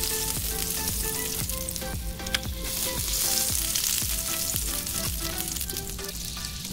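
Butter melting and sizzling on a very hot electric hot plate, a steady crackling hiss with fine spitting pops that swells a little midway. Soft background music plays underneath.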